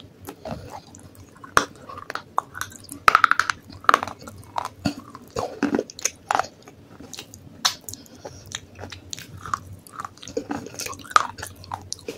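Close-miked biting and chewing of crunchy baked clay pot pieces, a run of irregular sharp crunches and crackles.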